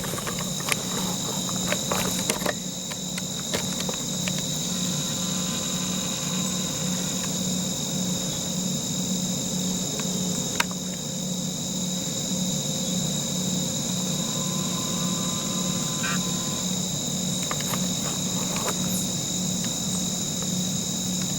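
Steady chorus of crickets and other insects, a continuous high-pitched ringing, over a low, evenly pulsing hum. A few faint clicks.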